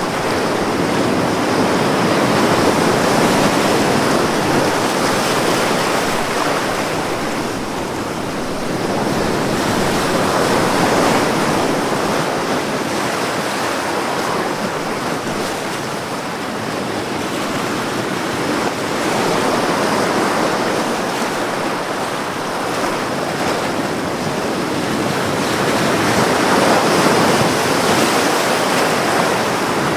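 Ocean waves washing onto a shore in a continuous surf, swelling and easing every several seconds.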